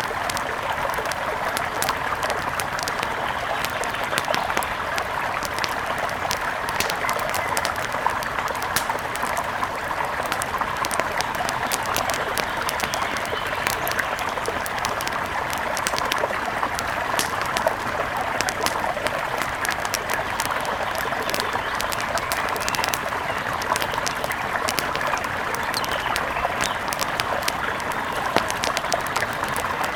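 Wood fire crackling, with frequent irregular snaps and pops, over the steady rush of a mountain river.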